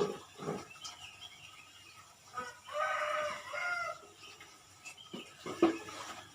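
A rooster crowing once, one call of about a second near the middle. A few short knocks come around it, the loudest near the end.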